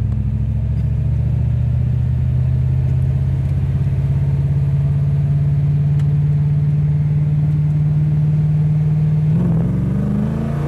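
Holden Commodore V8 engine heard from inside the cabin, pulling steadily with its note slowly rising. Near the end the note breaks, as at a gear change, and then climbs again.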